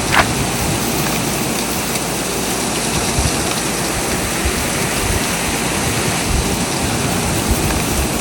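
Strong blizzard wind blowing hard over the microphone: a loud, steady rushing with gusty low rumbles, and a brief high squeak just at the start.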